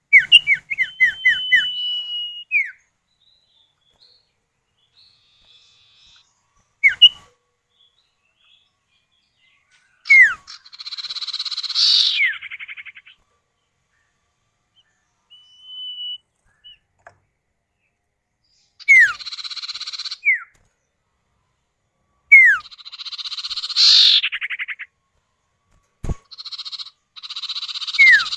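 Common iora (cipoh or sirtu) calls, male and female answering each other. The calls are quick falling whistled notes, a held whistle, and harsh buzzy rattling calls, in several bursts separated by pauses.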